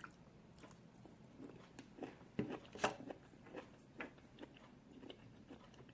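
A person chewing food with faint, irregular mouth clicks and smacks, a little louder about two and a half seconds in.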